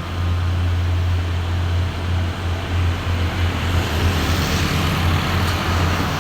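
Heavily loaded diesel truck crawling slowly past, its engine a steady low drone, with road and engine noise growing louder about halfway through as it comes closer.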